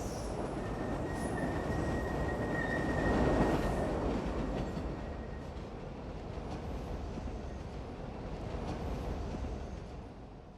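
Train rolling on its rails: a steady rumble with a thin, high wheel squeal held for a few seconds, starting about a second in. The sound fades away near the end.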